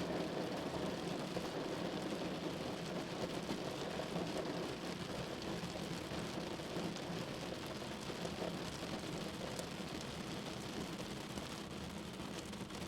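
Steady rain falling, an even wash of noise with faint scattered drop ticks, easing slightly toward the end.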